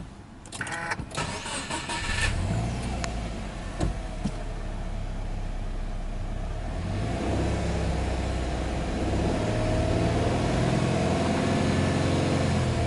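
Subaru Impreza S-GT's 2.0-litre turbocharged EJ20 flat-four cranked on the starter and catching about two seconds in, then idling. From about seven seconds in it is revved up and held near 3,000 rpm, heard from the driver's seat.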